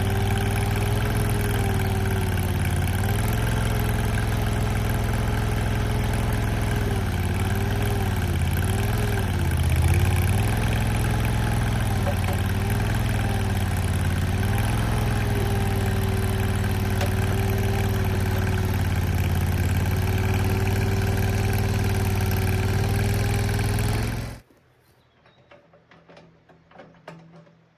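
Mini skid steer's engine running at a steady speed, its pitch dipping and recovering a few times, then shut off about three seconds before the end. A few faint clicks and knocks follow in the quiet.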